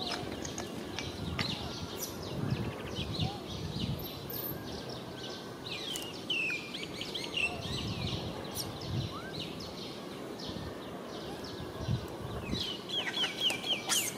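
Birds chirping outdoors: many short, high chirps and quick downward sweeps, with a fast run of chirps near the end, over a low, uneven rumble.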